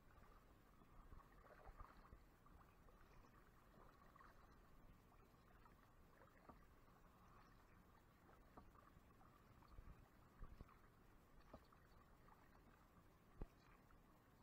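Faint water sounds of a kayak being paddled, with scattered light knocks and one sharper knock near the end.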